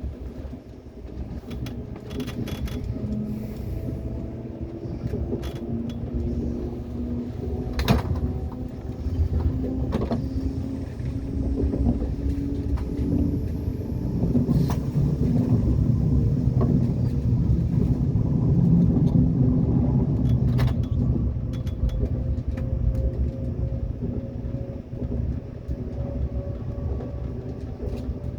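Train running on the track: a steady low rumble with slowly rising whines, and a few sharp knocks along the way.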